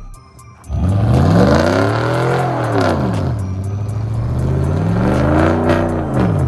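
Car engine revved hard twice as the car spins its wheels: it starts about a second in, climbs in pitch, falls, then climbs and falls again near the end.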